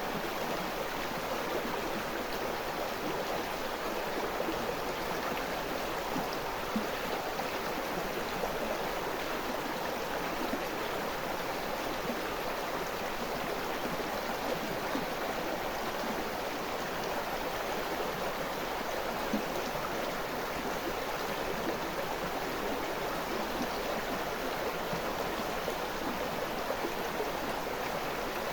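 River water flowing over rocks: a steady rushing and babbling stream.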